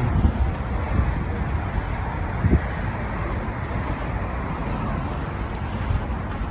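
Steady noise of highway traffic, with a brief thump about two and a half seconds in.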